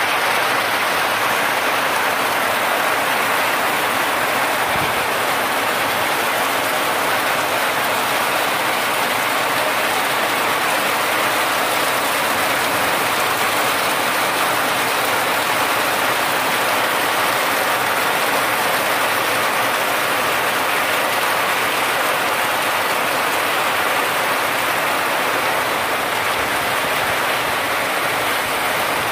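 Heavy rain falling steadily, an even hiss of rain pouring down without let-up.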